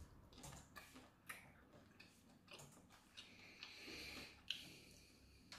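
Faint mouth noises of a person chewing a sauce-soaked piece of baguette with the lips closed: scattered small wet clicks, and a breath out through the nose about three seconds in.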